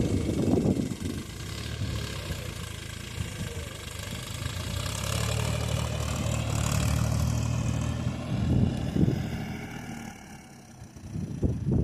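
Mahindra 275 tractor's diesel engine running steadily while working a rotavator, with louder rushes of noise near the start, about two-thirds of the way in and at the end, and a brief drop in level shortly before the end.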